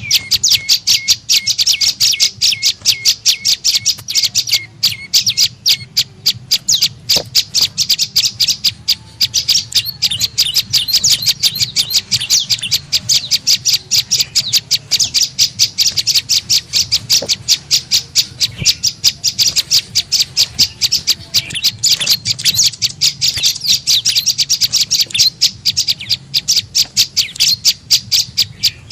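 Prenjak lumut bird calling a fast, steady series of sharp chirps, about four a second, used as a bird-trapping lure call.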